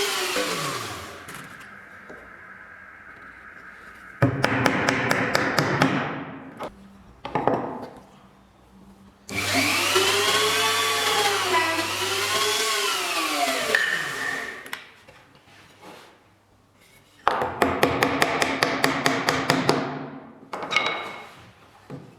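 Woodworking tool noise: a whining tool whose pitch rises and falls unevenly for several seconds, twice, alternating with bursts of fast, regular strokes on wood.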